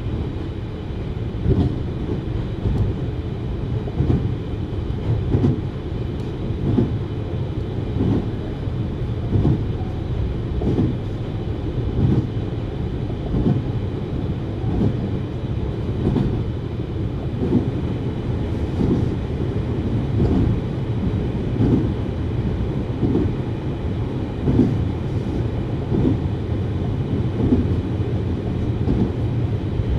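JR 733 series electric multiple unit running at speed, heard from inside the car: a steady low rumble with a regular clickety-clack of the wheels over rail joints, about once every second and a bit.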